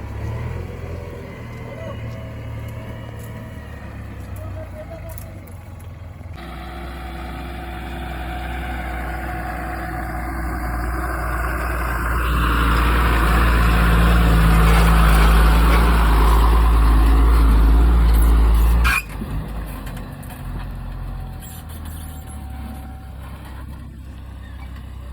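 Diesel engine of a JCB 3DX backhoe loader running, building up to a loud working rev about halfway through that drops off suddenly about three-quarters of the way in.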